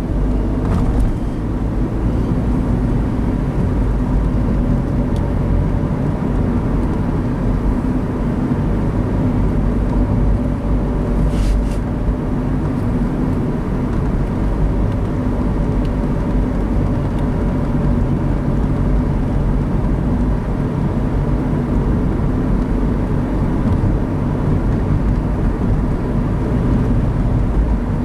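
Steady road and engine noise of a car driving, heard from inside the cabin, with a faint steady hum over it and a brief click partway through.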